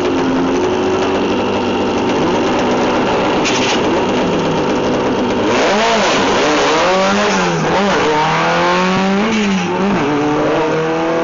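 Drag racing car engines at the start line: running, then from about halfway revving hard with the pitch swinging up and down several times. Near the end the pitch climbs steadily as a car accelerates away.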